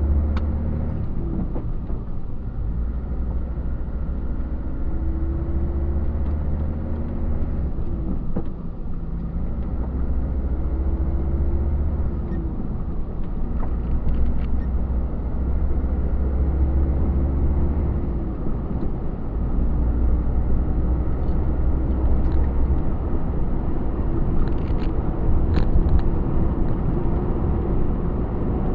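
Truck engine running while driving, with a steady low rumble and road noise. The engine note rises and falls every few seconds.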